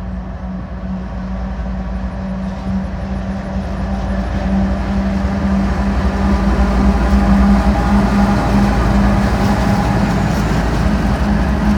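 Diesel pusher locomotive running on its own, a steady engine hum over a low rumble that grows louder as it approaches.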